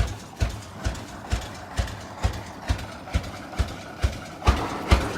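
1912 Rumely F tractor's single-cylinder engine running at its slow working speed, an even, heavy exhaust pop about twice a second.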